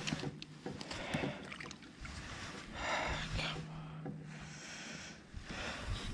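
Water sloshing and splashing against a kayak, swelling twice in the second half, with scattered small knocks and clicks.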